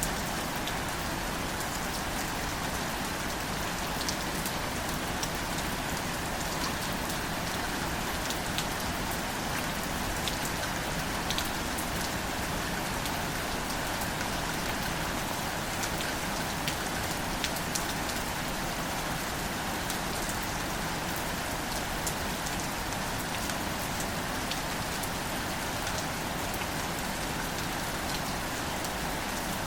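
Steady rain falling on plants and ground, with scattered distinct drop ticks over an even hiss.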